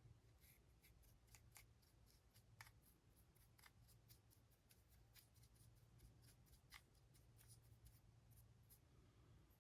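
Faint, irregular scratchy ticks of a brush dry-brushing paint across the raised details of a 3D-printed model, over a low steady room hum.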